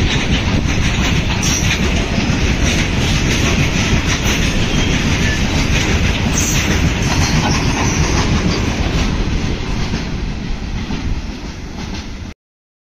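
Train hauled by an Indian Railways WAG-7 electric locomotive passing at full speed: a steady wheel-on-rail din with clickety-clack over the rail joints. It grows quieter over the last few seconds, then cuts off suddenly.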